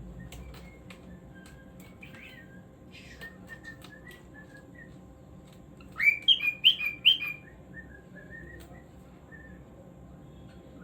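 Cockatiel whistling and warbling softly, with a loud run of four quick rising whistled notes about six seconds in, then softer warbling again.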